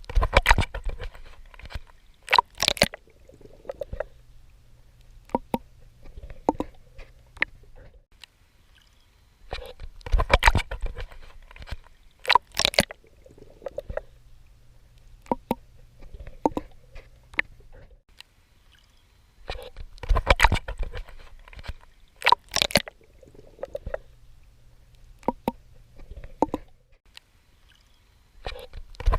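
Swimming strokes splashing in water, recorded close up: a burst of splashes about every ten seconds, with quieter sloshing and gurgling in between.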